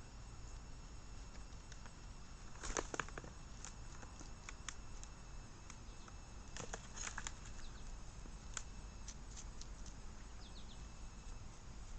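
Birds feeding on seed: two short flurries of wing flapping, about three and seven seconds in, with scattered sharp pecking clicks between and a few faint high chirps near the end.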